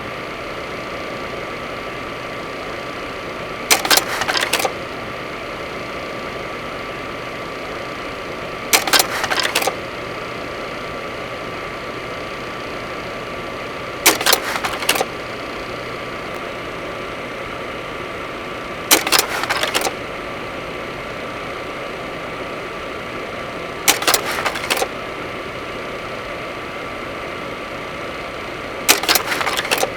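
Steady drone of a turboprop engine, with a constant whine, broken about every five seconds by a short, loud burst of noise lasting under a second.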